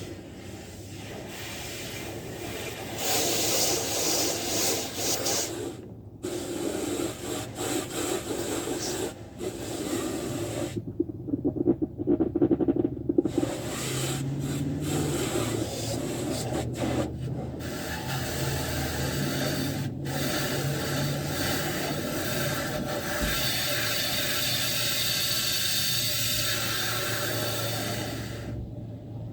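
Car being washed at a self-service car wash bay: a hissing, rubbing wash noise that stops briefly several times, over a steady low hum from about a third of the way in.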